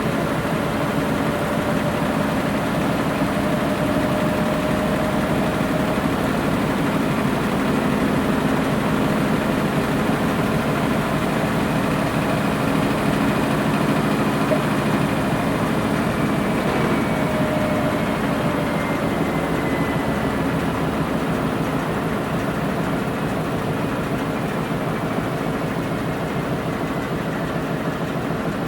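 Washing machine running mid-program: a steady motor hum and drum noise, with a faint whine that drifts slightly in pitch.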